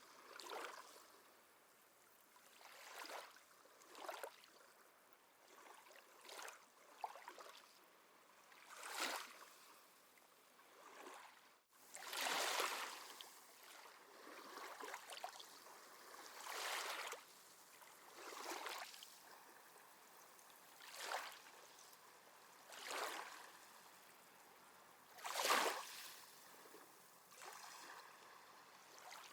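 Small sea waves lapping and washing onto the shore, a soft surge of water every two seconds or so.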